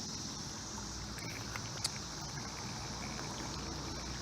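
Steady high-pitched drone of a cicada chorus over the low, even rush of creek water, with one faint click a little under two seconds in.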